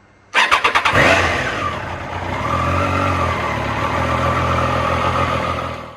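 Motorcycle engine starting: a quick burst of rapid strokes catches about half a second in and revs briefly. It then settles into a steady low-pitched run and drops away just before the end.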